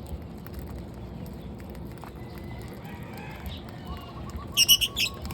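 Lovebirds chirping faintly over a low rumble, then a quick run of about four loud, shrill calls near the end.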